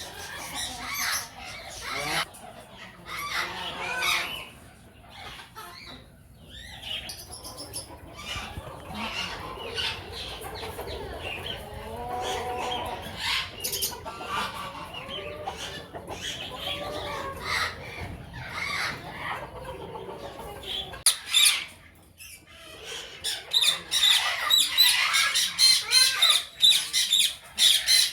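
Flock of aviary parrots, mostly Indian ringneck parakeets, calling and squawking in many short overlapping calls. The calls dip briefly about three-quarters of the way through, then come back louder and shriller.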